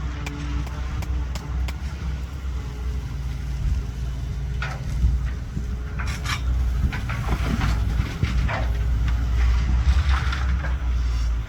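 Caterpillar 320BL hydraulic excavator running under steady diesel engine load, with several metallic clanks and scrapes about halfway through.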